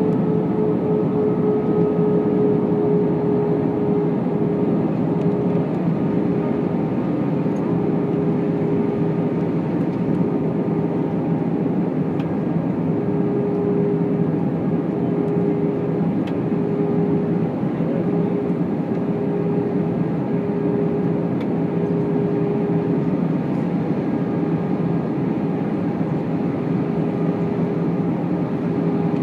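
Airbus A319 cabin noise in flight: a steady drone of the jet engines and rushing air, with a humming tone that fades and returns.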